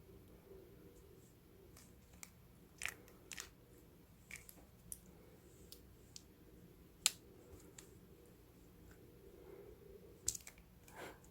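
Ragdoll cat's mouth making irregular soft clicks and pops, like lips parting or teeth knocking together, about a dozen over the stretch, the sharpest about seven and ten seconds in. The owner wonders whether it comes from the jaw joint.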